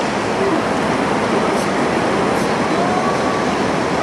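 Heavy rain pouring down in a steady, dense hiss, loud enough to drown out a television.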